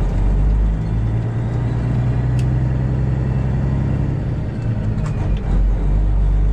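Detroit Diesel 12.7-litre engine of a Freightliner Classic XL semi truck running with a steady low drone, heard from inside the cab, with a brief click about two and a half seconds in.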